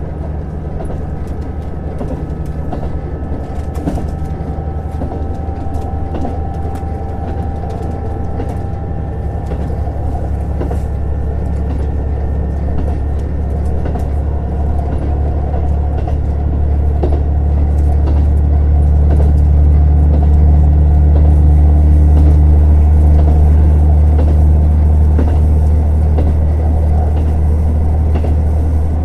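JR Hokkaido KiHa 150 diesel railcar running, its engine a steady low drone that grows louder past the middle, with faint clicks from the wheels over the rails.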